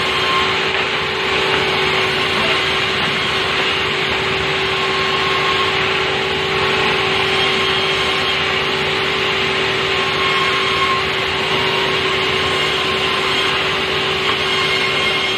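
Sawmill machinery running steadily at a constant level, a continuous mechanical noise with a steady hum.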